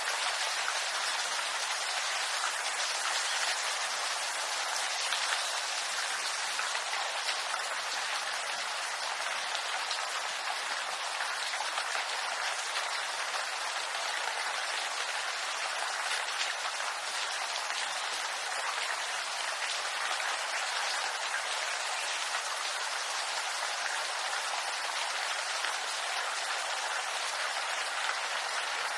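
Steady rain falling on bamboo leaves: an even, unbroken hiss of many drops with no single strikes standing out.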